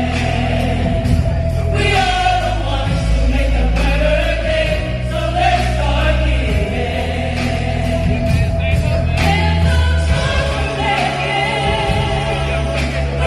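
Gospel music with a choir singing over steady bass accompaniment.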